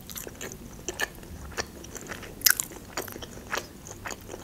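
Close-miked chewing of a meat chop dipped in soy sauce: irregular short wet clicks and smacks of the mouth, the loudest about two and a half seconds in.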